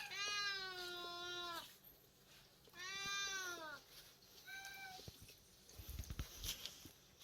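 Domestic cat meowing three times, hungry for its food: two long meows, then a short one about four and a half seconds in. A few soft low thuds follow.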